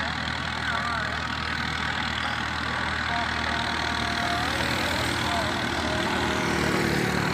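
Hindustan 50 hp tractor's diesel engine running steadily, growing slightly louder in the second half.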